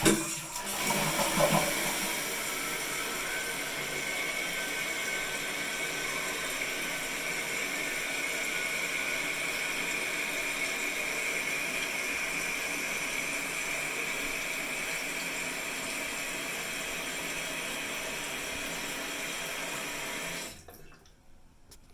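2020 Jacuzzi Lyndsey toilet: the end of a flush, then the tank refilling through the fill valve, a steady hiss of running water with a faint high whistling tone. It shuts off suddenly about twenty seconds in as the tank reaches its fill level.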